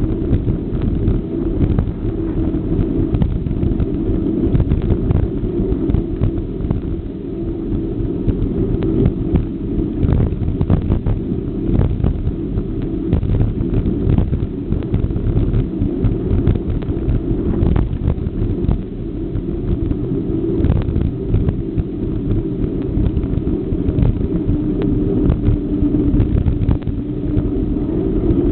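Loud, steady low rumble of a moving bike ride, wind and road noise on the microphone, with frequent small clicks and knocks.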